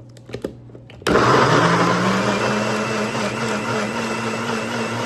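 A NutriBullet blender starts suddenly about a second in and runs steadily, blending chopped tomatoes and basil; its motor pitch rises briefly as it spins up, then holds. A few light clicks come before it starts.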